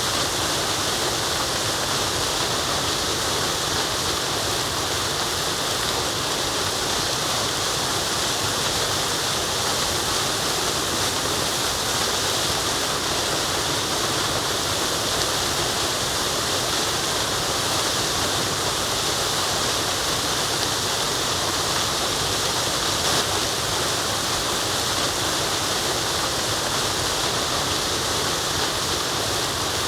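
Waterfall: water falling and running in a steady, unbroken rush with a bright hiss.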